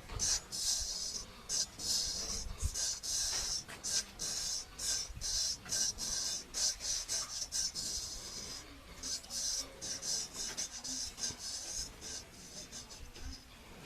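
Straight razor scraping across hair and stubble in short, rapid, irregular strokes, a few a second, growing fainter near the end.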